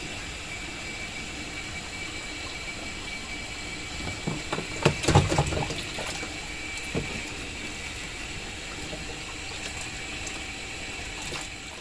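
Water running steadily with a faint steady tone, with a cluster of knocks and clunks about five seconds in and another knock near seven seconds.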